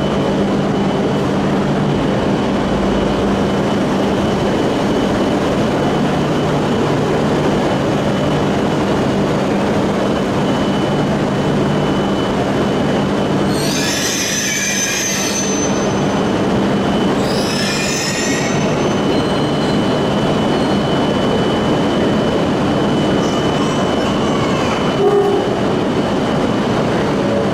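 E5 and E6 Shinkansen trainsets at the platform during coupling: a steady loud running hum with a constant high whine. About halfway there are two short, shrill high-pitched sounds about three seconds apart, and a brief sharper sound comes near the end.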